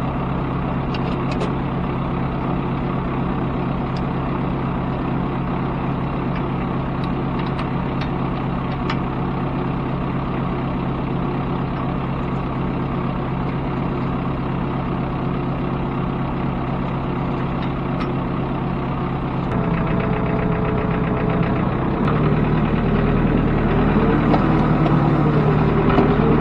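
Tractor engine running steadily. About two-thirds of the way through its note changes and gets louder, shifting again a couple of seconds later.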